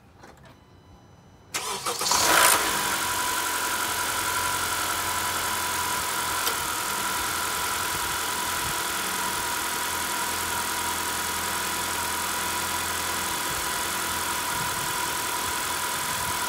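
A 2013 Honda Accord's 2.4-litre four-cylinder engine cranks and starts about a second and a half in, then idles steadily, turning its newly fitted serpentine belt. A single click about six and a half seconds in is the air-conditioning compressor clutch engaging.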